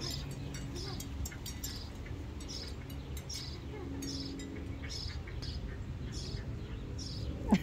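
Small birds chirping: short high chirps repeating about twice a second, over a steady low background hum.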